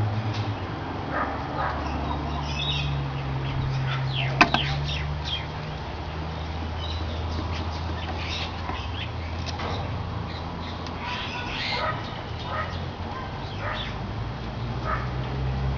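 Cockatiels making many short, quick chirps during mating, with a sharp click about four and a half seconds in, over a steady low hum.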